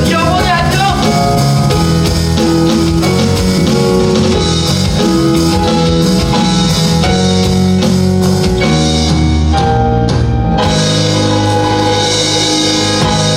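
Live musical-theatre band playing the closing instrumental bars of a number, with drums, guitar and held chords.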